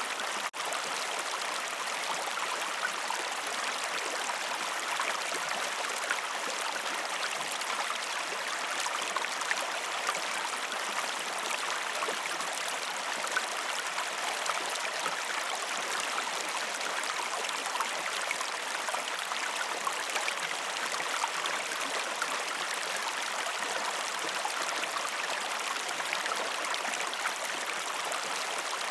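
Waterfall: a steady, even rush of falling water, with a momentary dropout about half a second in.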